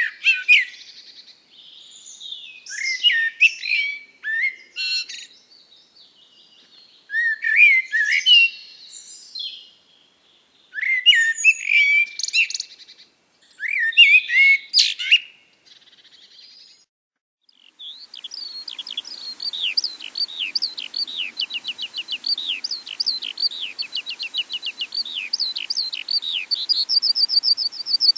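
Birdsong: a bird sings short phrases of quick sliding whistled notes every few seconds. About two-thirds of the way through, a different bird takes over with a long, fast series of short downward-swept chirps over a faint hiss, speeding up near the end.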